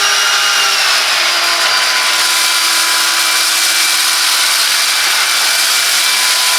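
Silvercrest 2-in-1 18-volt cordless vacuum cleaner running in eco mode: its motor whine rises as it spins up and settles to a steady pitch about a second in, over a strong rush of air.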